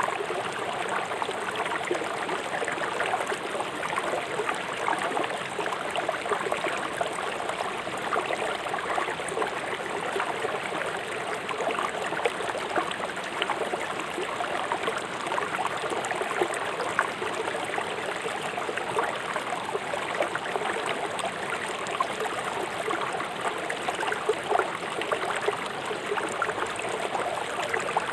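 Fast-flowing river rushing and splashing over rocks, a steady dense burble of water with many small splashes.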